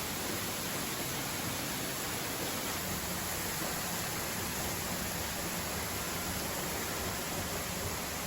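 Steady rushing of a waterfall: an even hiss of falling water that does not change.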